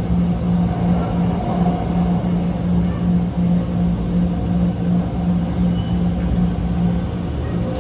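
SMRT R151 train's traction motors humming steadily in a pulsing low tone while the train runs between stations, over the rumble of the wheels on the rails, heard from inside the carriage.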